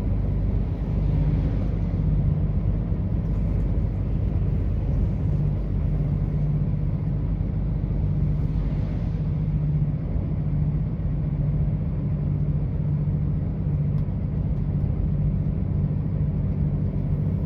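Truck engine running with a steady low drone over road rumble.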